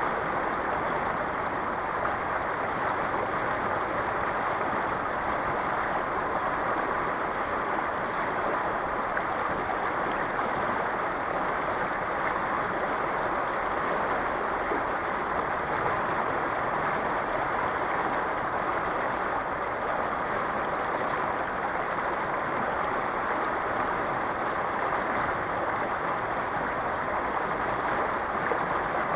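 Strong river current flowing, a steady, unbroken wash of water.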